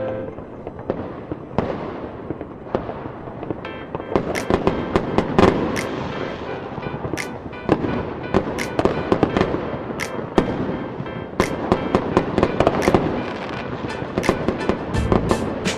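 Fireworks display going off in a rapid, irregular string of bangs and crackles that grows denser after the first few seconds.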